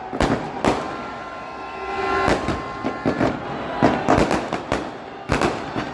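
New Year fireworks going off: many sharp bangs and cracks at irregular spacing, several close together, with a steady high tone held for about two seconds in the middle.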